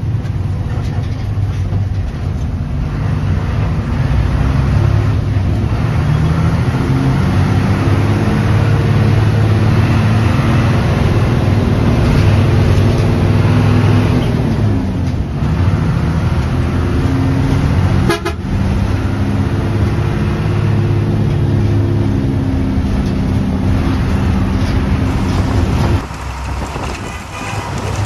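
Hino 1J bus's diesel engine running under way, with horn toots at times. About halfway through the engine note falls and then climbs again.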